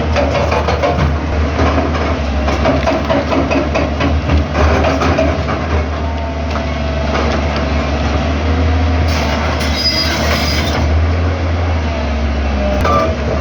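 Excavator's heavy diesel engine running steadily, with rapid metal clanking and rattling that is densest over the first half.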